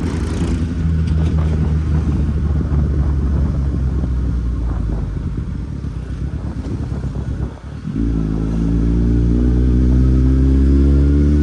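Kawasaki Z800's inline-four engine on the move, its note sagging for several seconds, then a brief drop about seven and a half seconds in, like a gear change, after which it pulls again with a steadily rising pitch.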